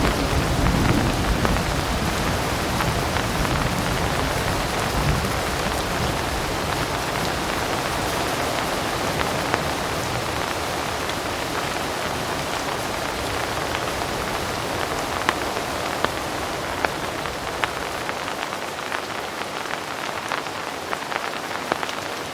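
Heavy rain falling steadily, with a low rumble of distant thunder dying away over the first several seconds. Sharp ticks of single drops stand out now and then through the second half.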